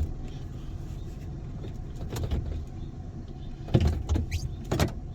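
Vehicle engine running steadily, heard from inside the cabin as a low rumble, with a few sharp clicks and knocks.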